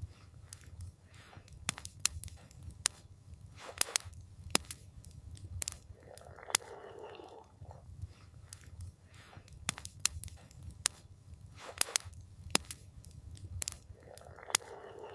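Campfire crackling, with irregular sharp pops over a steady low rumble. A soft whooshing noise about a second long comes twice, about six seconds in and near the end.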